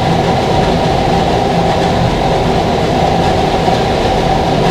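Steady low rushing, rumbling noise with a faint hum, unchanging throughout.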